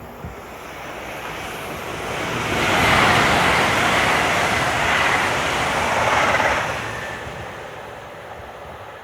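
Avanti West Coast express passenger train passing through at speed: a rushing noise of wheels and air that builds, stays loud for about four seconds with a faint high whine in it, then fades away.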